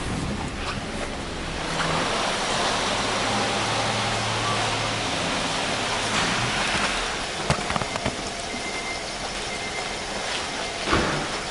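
Subaru Stella kei car engine idling, heard as a steady hiss with a low hum. A few sharp clicks come about seven and a half seconds in and again near the end.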